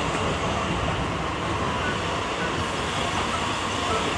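Mumbai suburban local train running between stations, heard on board: a steady, even rumble and rattle of the coach and wheels on the track.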